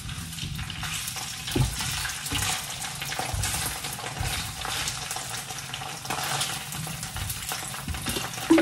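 Slices of Taiwanese radish cake (lo bak go) sizzling as they fry in a nonstick pan, a steady crackling hiss, with a few soft knocks.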